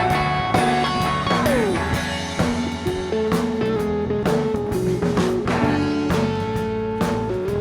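Live blues-rock band playing an instrumental break: a lead guitar holds and bends sustained notes, with one note sliding down about a second and a half in, over bass and steady drums.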